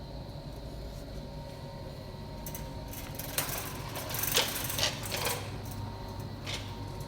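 Steady background hum of a large store, with a run of rattling and clicking about three to five and a half seconds in and one more click near the end.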